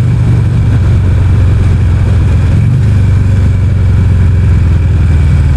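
Motorcycle engine and exhaust running steadily while cruising. The muffler's baffles have been knocked out.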